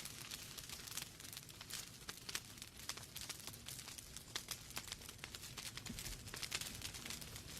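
Wood fire burning in a fireplace: logs crackling and popping in frequent, irregular sharp snaps over a soft steady hiss of the flames.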